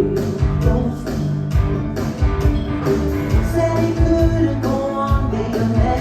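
Live rock band playing a song with a steady drum beat of about two beats a second.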